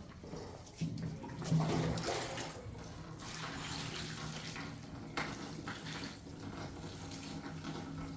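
Water running steadily, as from a tap into a tub or basin, with a low steady hum beneath and a few short knocks.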